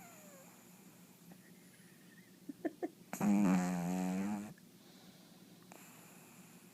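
Pug snoring in its sleep: a few short snorts about two and a half seconds in, then one long, loud, pitched snore lasting over a second.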